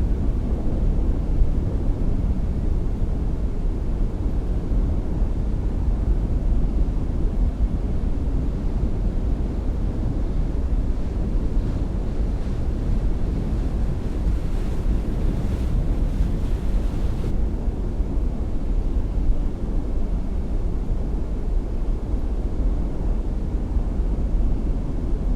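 Wind rumbling on the microphone over water and boat noise, a steady low rush with no clear engine note. A faint high hiss joins in about fourteen seconds in and cuts off suddenly a few seconds later.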